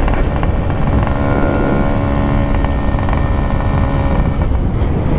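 Yamaha RX-King 135 two-stroke single-cylinder motorcycle engine running steadily under way.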